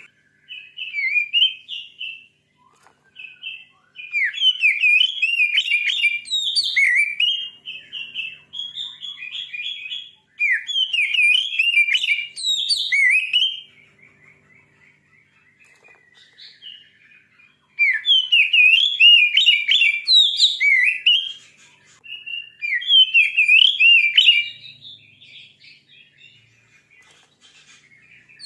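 Oriental magpie-robin (kacer) singing: long bouts of fast, varied whistles and chattering notes, broken by pauses of a few seconds midway and near the end.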